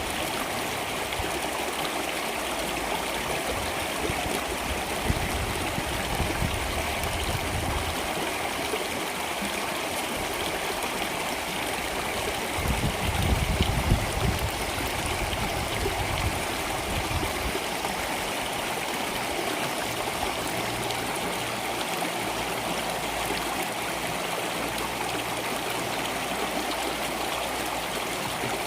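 Stream water flowing and trickling steadily. A brief, louder low rumble comes about halfway through.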